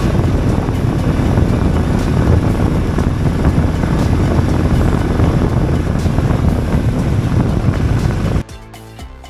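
Motorcycle riding at speed: a steady, loud rush of engine and wind noise that cuts off suddenly about eight seconds in, as music takes over.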